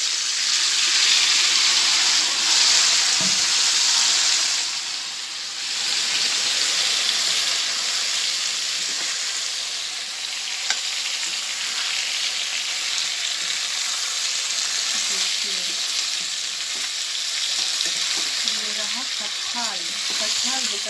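Chopped raw jackfruit just added to hot oil in a kadai, sizzling and hissing steadily as it is stirred with a metal spatula. The sizzle is loudest over the first few seconds and dips briefly about five seconds in, with a single sharp tap of the spatula about halfway through.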